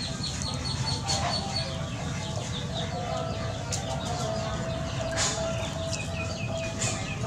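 Birds calling: a quick run of short high chirps near the start, and another, lower run near the end, over steady outdoor background noise.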